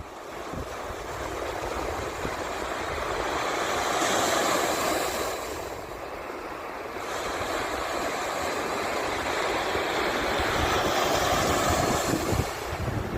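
Lake Michigan waves breaking and washing onto the shore in a strong wind, swelling about four seconds in and again near the end. Wind gusts rumble on the microphone at the start and end.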